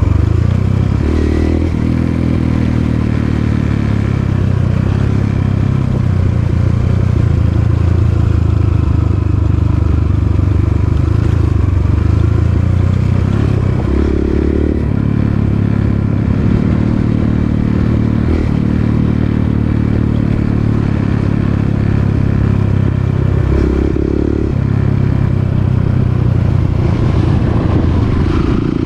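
Dirt bike engine running steadily while riding a trail. The engine note changes briefly three times: about a second in, about 14 seconds in and about 24 seconds in.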